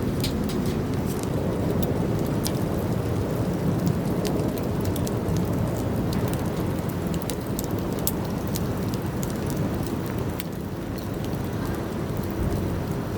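Wood campfire crackling: a steady rushing noise with frequent sharp, irregular pops and snaps.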